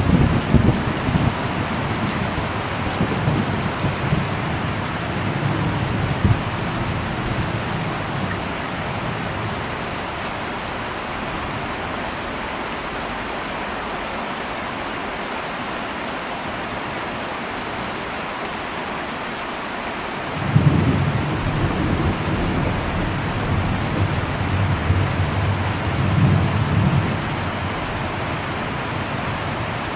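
Heavy rain drumming steadily on an old metal roof, with rolling thunder: a low rumble dying away in the first few seconds, then another rumble breaking in suddenly about two-thirds of the way through and rolling on for several seconds.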